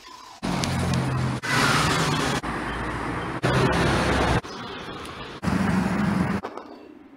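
Rapid montage of car sounds from the street: engines running and traffic noise, cut abruptly into roughly one-second pieces, each a little different in loudness and pitch.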